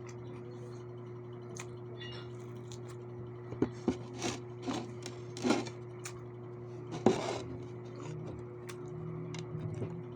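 Eating sounds: about half a dozen short clicks and smacks of chewing and utensils on a plate, bunched in the middle, over a steady low hum.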